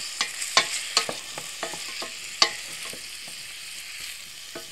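Mushrooms, onions and peppers sizzling as they fry in a stainless steel saucepan, with a utensil clicking and knocking against the pan as they are stirred; the sharpest knock comes about two and a half seconds in.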